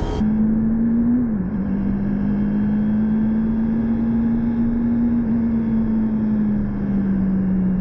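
Motorcycle engine held at a steady drone at high revs, over rushing wind noise. The engine note dips briefly about a second in, then sags slowly lower.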